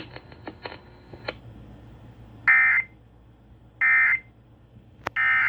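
Emergency Alert System end-of-message data bursts on an FM broadcast: three short, identical buzzy digital squawks about 1.3 seconds apart, marking the end of a severe thunderstorm warning. A few faint clicks come in between.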